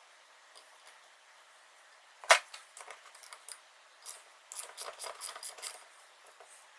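A sharp click about two seconds in, then a quick, irregular run of light metallic clicks and taps: small metal parts and tools being handled on the bench.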